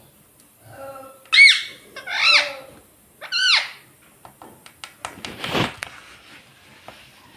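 Ring-necked parakeet giving a run of short, arched squawks, three of them loud, followed by a harsher, noisier rasp a couple of seconds later, with a few small clicks in between.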